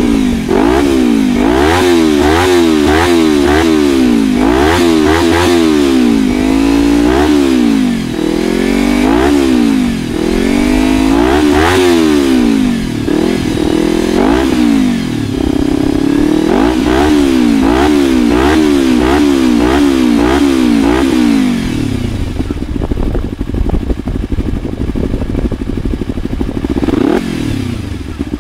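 Kawasaki Ninja 250R parallel-twin engine breathing through an Arrow exhaust with the dB killer baffle removed, revved up and dropped back over and over in quick blips. About 22 seconds in the revving stops and it settles back to a steadier idle.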